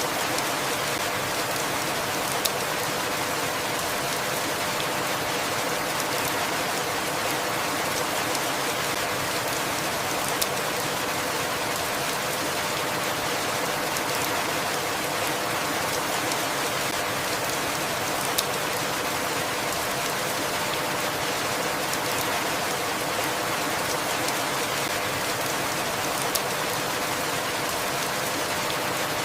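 Steady, even rainfall with dense, continuous patter. Four brief sharp ticks stand out, spaced several seconds apart.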